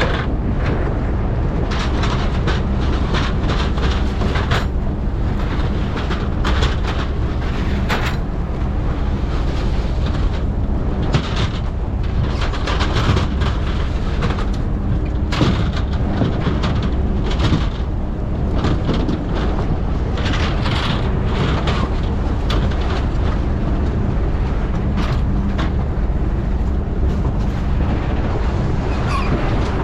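A fishing boat's engine runs steadily with a constant low rumble. Irregular short knocks and noises sound over it throughout.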